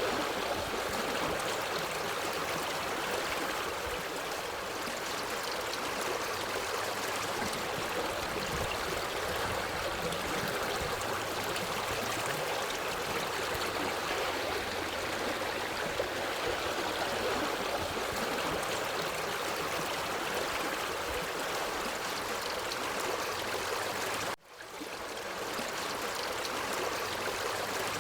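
Stream of water flowing steadily over rocks, an even rushing babble. About three-quarters of the way through it cuts out suddenly and fades back in within a second or two, an edit or loop seam in the recording.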